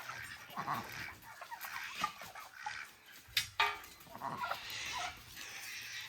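Turkeys calling: scattered soft short calls, with one louder, brief call about three and a half seconds in.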